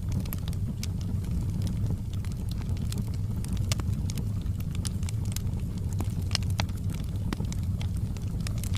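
Fireplace fire crackling, with frequent sharp pops and snaps over a steady low rumble of the flames.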